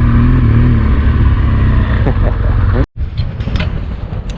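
Motorcycle engine running steadily, with wind noise. About three seconds in, the engine sound cuts off abruptly and gives way to a run of sharp clicks and knocks.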